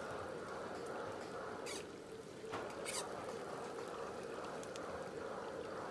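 Beef cakes shallow-frying in a wide pan of oil with a steady sizzle, and metal tongs clicking twice against the pan as the cakes are turned.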